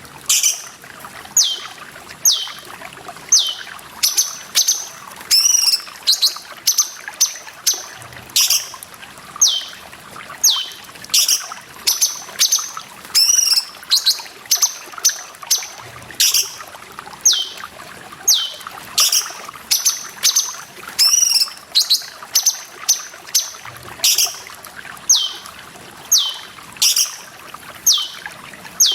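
Cucak cungkok song: short high notes, each sliding down in pitch, repeated one to three times a second, with now and then a fuller, rounder call. Running water trickles steadily underneath.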